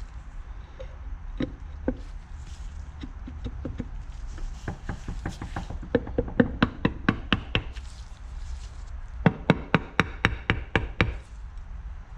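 Quick series of sharp taps and clicks from tools working on an ATV engine's cases while a gasket and cover are fitted. The taps come in scattered ones at first, then in fast runs about six seconds in and again near ten seconds.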